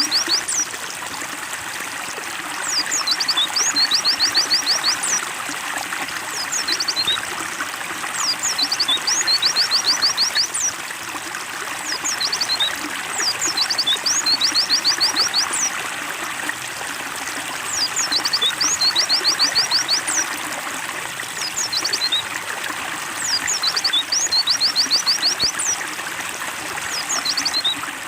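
Steady trickling, splashing water, with a small bird's high chirping phrase repeating about every five seconds, each phrase ending in a quick run of about eight chirps.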